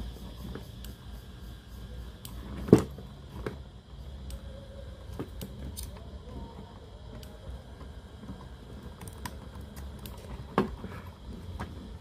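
Workbench handling noises: scattered clicks and knocks over a low steady hum, with a sharp knock about three seconds in and another near the end.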